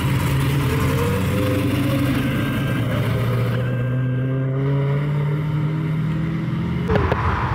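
A classic Ford Mustang fastback's engine running as the car pulls slowly away, its note rising gradually.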